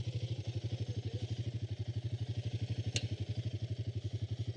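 An engine idling with an even, rapid beat of about fourteen pulses a second, with a single sharp click about three seconds in.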